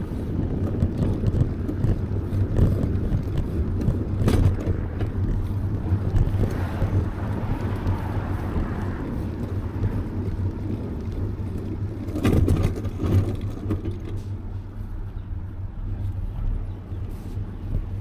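Steady low road and traffic rumble heard from a moving bicycle, with a few light clicks and a louder swell about twelve seconds in.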